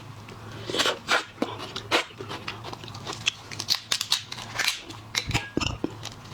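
Irregular cracks and clicks of shellfish shells being broken and peeled by hand.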